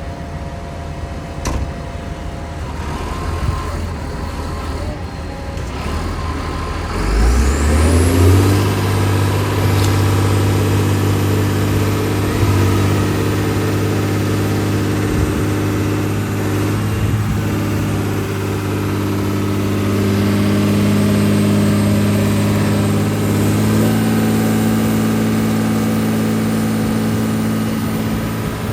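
John Deere 672G motor grader's diesel engine running; about seven seconds in it revs up, with a high whine climbing along with it, then holds at a steady higher speed.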